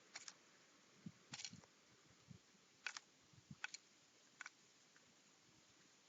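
About five faint, sharp clicks at irregular intervals, with a few soft low knocks, over a quiet background.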